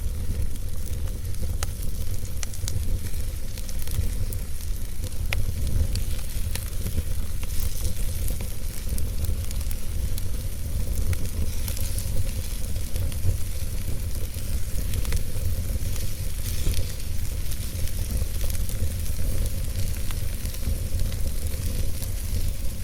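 Campfire crackling, with sharp pops scattered irregularly through a steady hiss, over a constant low wind rumble.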